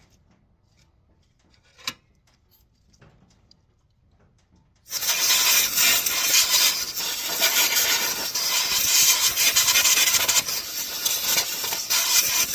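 A single sharp click, then about five seconds in a harsh, steady rubbing or scraping noise starts up, runs for about seven seconds and stops abruptly near the end.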